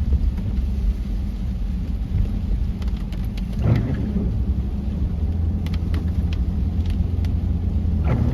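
Inside a moving car: a steady low rumble of engine and road noise, with a few faint scattered ticks and two brief higher sounds about midway and near the end.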